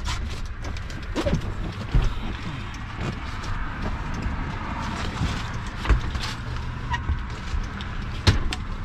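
A vehicle running steadily with a low rumble, with a few sharp knocks about two seconds in, near six seconds and near the end.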